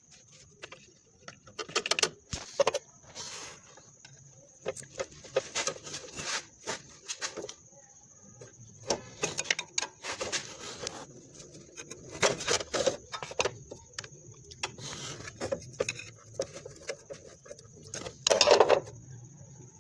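Irregular clicks and clatter, some strokes louder than others, over a faint steady low hum.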